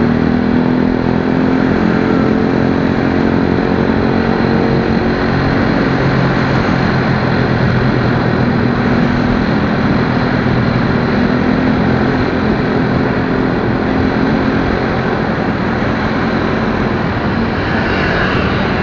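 Motorcycle engine running steadily while riding, its pitch shifting a little, under loud wind and road noise.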